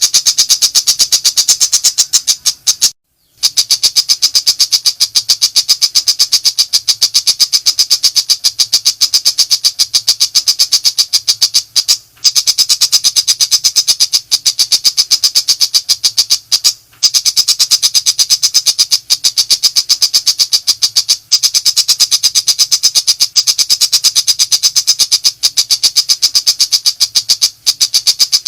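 Long-tailed shrike (pentet macan) giving a loud, rapid, rattling chatter of high dry notes, many a second, broken by a few brief pauses.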